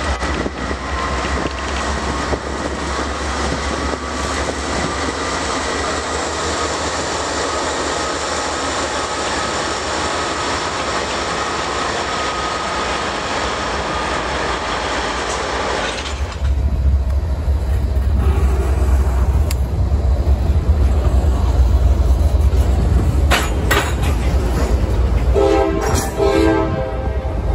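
CSX diesel freight locomotives and cars rolling past slowly, engines running and wheels clicking over the rail joints. About two-thirds through the sound turns to a heavier low rumble, and near the end comes a short horn blast.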